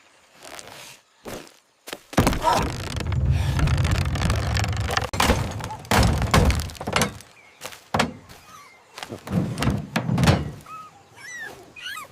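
A series of heavy thuds and breaking sounds, then a dog whimpering in short high cries near the end.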